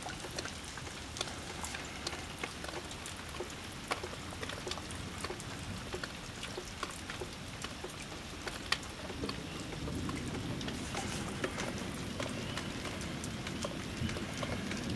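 Rain falling during a thunderstorm, with single drops ticking sharply close by. About two-thirds of the way through, the sound gets louder and deeper.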